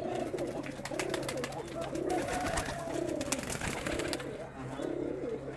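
Several domestic pigeons cooing over one another in low, repeated coos, with light clicks and rustling.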